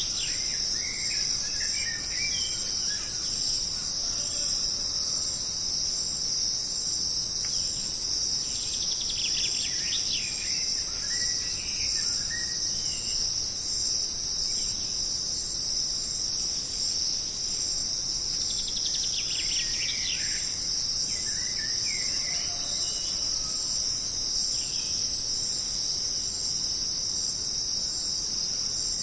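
Jungle insects keeping up a steady, high-pitched drone, with bird calls breaking in: bursts of falling, trilling chirps about every ten seconds and a few scattered single calls.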